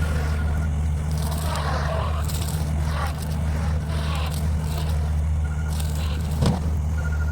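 A motor runs steadily as a low hum, with scraping and crackling noise over it and a sharp knock about six and a half seconds in.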